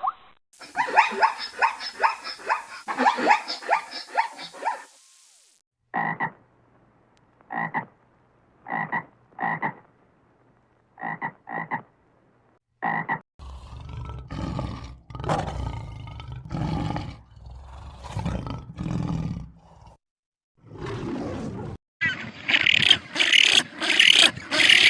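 A succession of different animal calls, one short clip after another, including a run of brief, separate calls repeated about once a second in the middle.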